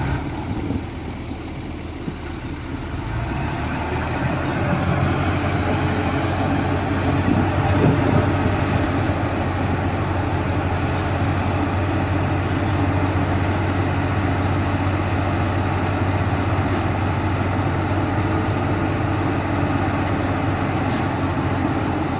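Heavy diesel engine running steadily with a low hum. It eases off a second or so in, then picks up again about four seconds in and holds steady.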